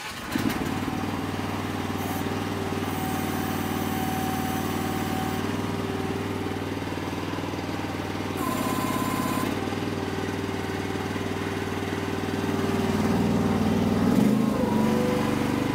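Mini excavator engine running steadily at a constant speed. There is a brief higher tone about halfway through, and the engine gets somewhat louder near the end.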